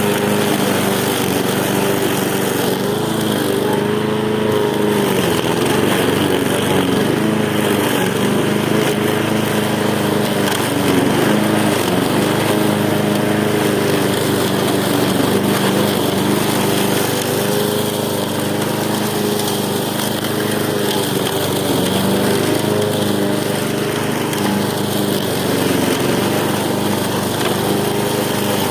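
Lawn mower engine running continuously while cutting grass, its pitch repeatedly dipping and recovering as the load changes.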